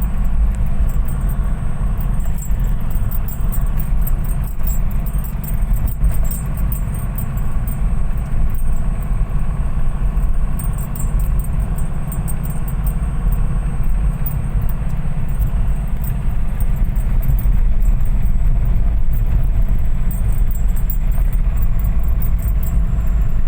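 Steady low road rumble of a moving vehicle, with light rattling throughout.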